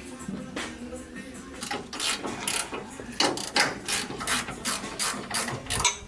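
Hand ratchet wrench clicking in a run of quick strokes, about three a second, starting about a second and a half in.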